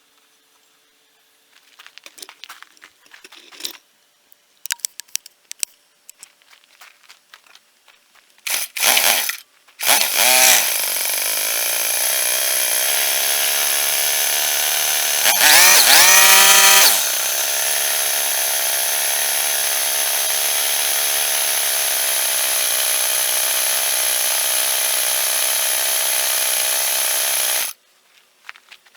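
Cub Cadet BC490 25cc four-stroke trimmer engine pull-started, catching after a couple of pulls, then idling steadily with one brief throttle rev in the middle before it is switched off. Clicks and handling noises come before the start.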